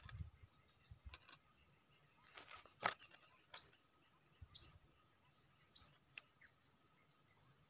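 Quiet outdoor ambience with a bird giving three short, high, downward-sweeping chirps about a second apart, after a sharp click near the middle, over a steady faint high hiss.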